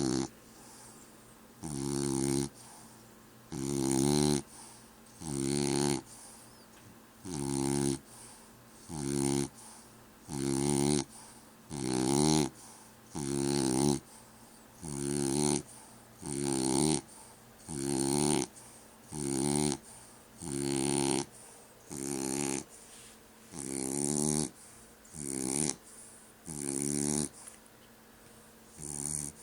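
French bulldog snoring in a steady rhythm, one snore about every second and a half.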